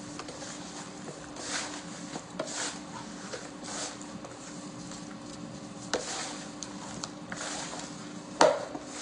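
Kitchen handling sounds while raw chicken wings are worked with seasoning by hand: short rustling swishes and a few sharp knocks, the loudest near the end, over a steady low hum.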